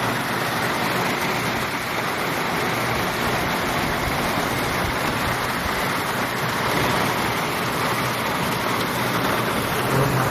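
Heavy rain falling steadily, an even hiss of a downpour.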